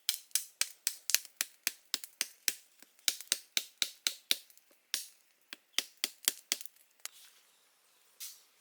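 A quick series of sharp clicks or taps, about three or four a second, that stops about six and a half seconds in.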